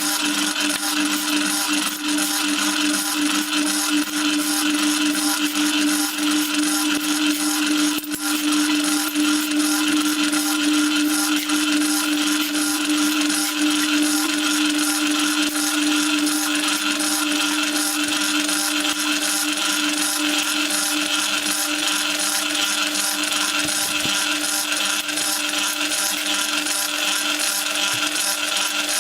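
Homemade concrete mixer running steadily under load, its drum turning a 3:1 sand-and-cement mix with water. A continuous motor hum with one strong steady tone over the churning noise of the batch.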